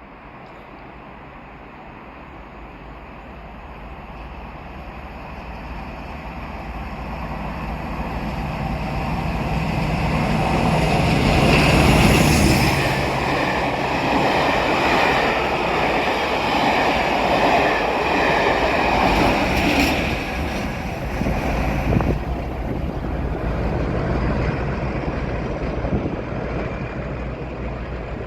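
A train approaching and passing, growing steadily louder to a peak about twelve seconds in, then running by loudly and easing off slightly near the end.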